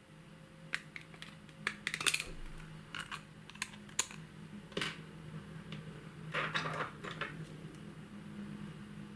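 White slime being pressed and worked by hand, giving irregular sharp clicks and crackling pops. The pops bunch together about two seconds in and again around six and a half seconds.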